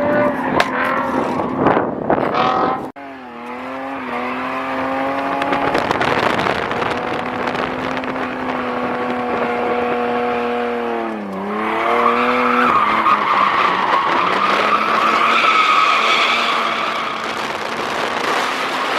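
Drift car's engine held at high revs, its pitch dipping briefly about two-thirds through, followed by tires squealing as the car slides. An abrupt cut comes about three seconds in.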